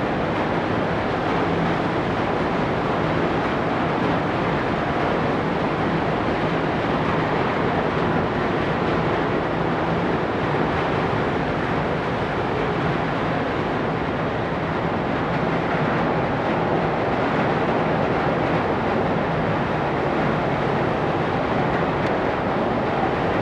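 Ferry Ogasawara Maru under way: a steady rush of engine and churned water, with a faint low hum underneath.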